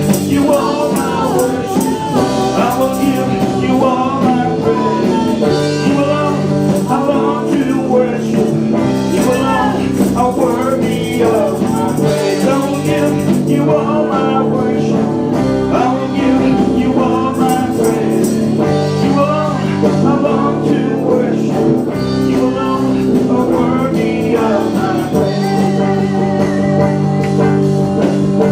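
Live praise band playing a worship song, with guitar, tambourine and a singing voice over steady held notes.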